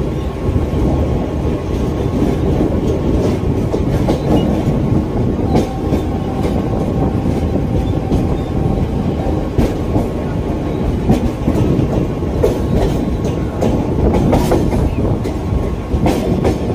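Mumbai suburban local train running at speed, heard from on board: a steady heavy rumble of wheels on rail, with clickety-clack clicks from the wheels passing over rail joints scattered throughout.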